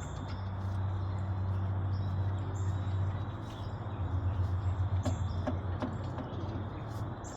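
A steady low rumble that swells through the middle, with birds chirping and a few light metallic clinks from hand tools about five seconds in.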